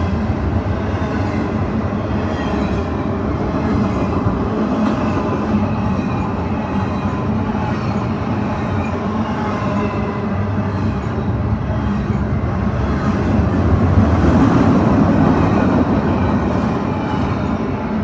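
Double-stack container well cars of a Canadian Pacific freight train rolling past: a steady rumble and clatter of steel wheels on the rails, with a faint high wheel squeal, swelling a little about three-quarters of the way through.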